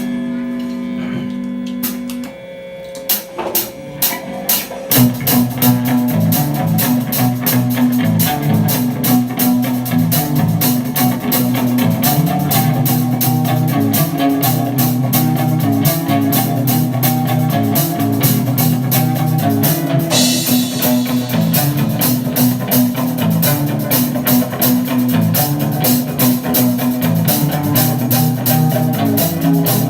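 Live rock band playing the opening of a song: a guitar chord rings out, drum hits come in about three seconds in, and from about five seconds the full band of guitars, bass and drum kit plays with a steady beat. Cymbals swell up about twenty seconds in.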